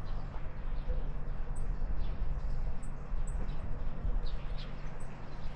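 Several short, high chirps of small birds scattered over a loud, steady low rumble.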